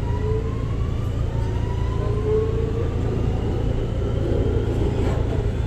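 R211 subway train pulling away, its VVVF traction inverter whining in several tones that rise slowly in pitch as it accelerates, over a steady low rumble.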